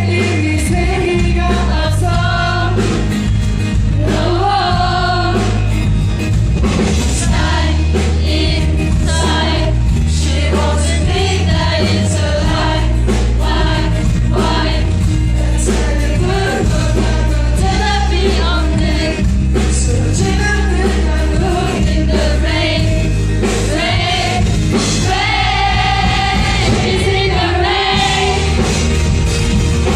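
Live rock band playing loud amplified music with sung vocals, strong bass and drums, continuing without a break.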